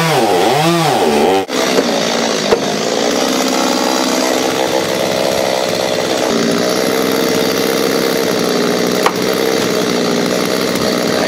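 Chainsaw cutting into a big oak tree. Its engine speed rises and falls in the first second or so, then it runs steadily under load as it saws through the wood.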